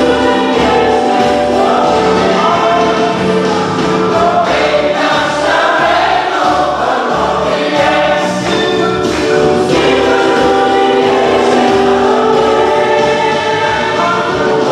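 Choir singing a gospel song, with held notes.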